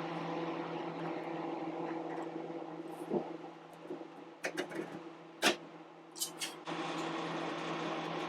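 Steady machine hum that drops away about four seconds in and comes back strongly near the end, with a few sharp light clicks and taps in between.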